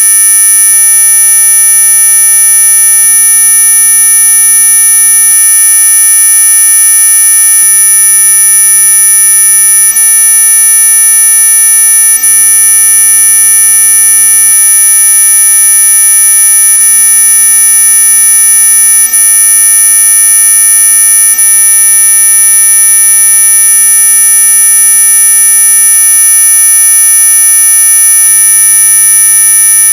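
Synthesized anti-mosquito repellent tone: a loud, steady, unchanging chord of electronic tones, piercingly high-pitched at the top, with lower tones sounding with it.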